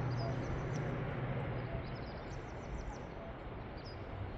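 Small birds chirping in quick, high calls over a steady rushing background. A low hum fades away in the first second and a half.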